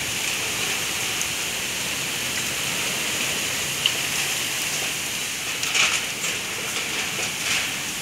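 Strong storm wind: a steady rushing hiss, with louder gusts of rustling about six and seven and a half seconds in.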